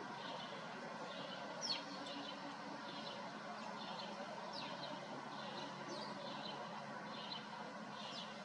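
House sparrow chirping: short chirps repeated about twice a second, with a few sharp downward-sliding notes, the loudest about two seconds in. A steady low hum of background noise runs underneath.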